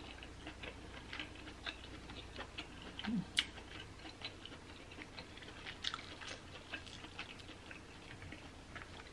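Close-miked mouth sounds of someone eating king crab meat: faint, scattered wet clicks and smacks of chewing, with a brief low hum about three seconds in.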